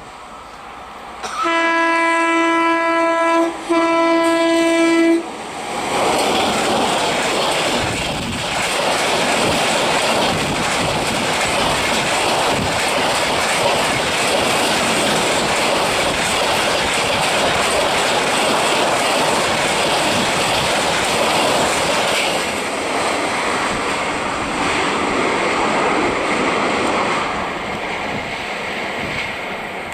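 Train horn sounding two long blasts, the first about two seconds and the second about one and a half. Then a fast train passes close by with a loud steady rush and rattle of wheels on the rails for about twenty seconds, fading near the end.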